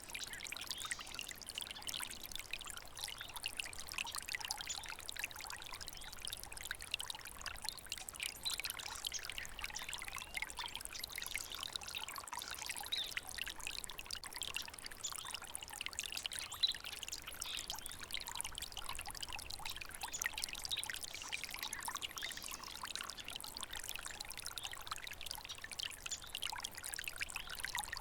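Water stream trickling and babbling steadily: a dense, even patter of many small splashes with no pauses.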